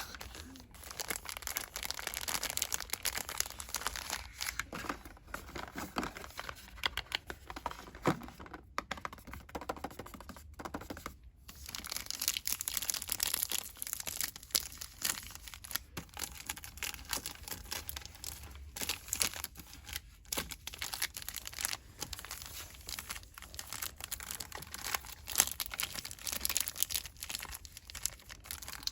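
Store product packaging rustled and crinkled quickly by hand, a dense crackling with brief pauses about nine and eleven seconds in.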